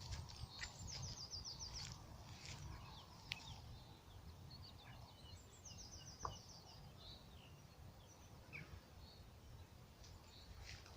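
Faint outdoor ambience with a steady low rumble. A small bird's quick trill, a run of rapid high notes, is heard twice. A few sharp crackles of footsteps on dry leaves and twigs are scattered through it.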